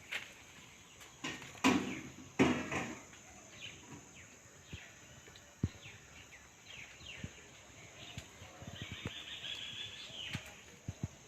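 Outdoor garden ambience with birds chirping on and off, including a longer chirping stretch near the end. Two short thumps or rustles come in the first few seconds, and there are a few sharp clicks.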